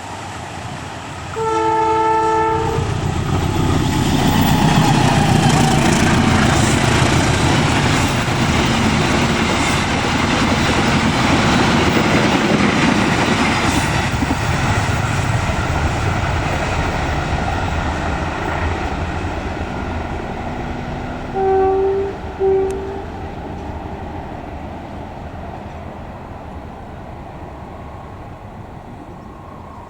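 Indonesian passenger train passing close by: one horn blast about two seconds in, then a loud, steady rumble and clatter of the wheels on the rails that slowly fades. Two short horn toots sound about twenty-two seconds in.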